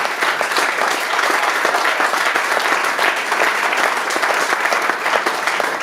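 Audience applauding steadily at the end of a song in a small club, a dense patter of many hands clapping.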